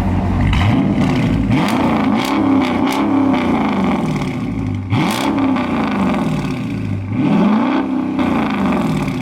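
Dodge Charger R/T's 5.7-litre HEMI V8 exhaust revved from idle three times, each rev rising and falling smoothly, with a few sharp clicks, the sharpest about five seconds in.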